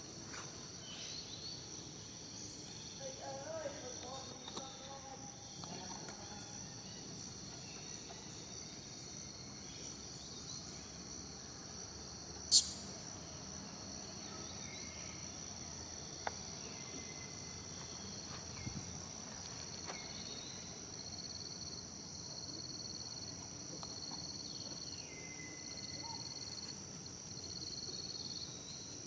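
Steady high-pitched drone of tropical insects, crickets and cicadas, with a pulsing high chirp about once a second in the last third. A single sharp click about twelve seconds in.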